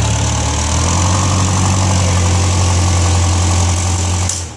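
TCM propane forklift engine running steadily, with a strong low hum and a hiss on top; the forklift has an exhaust leak. The pitch lifts slightly about a second in, and the sound cuts off abruptly near the end.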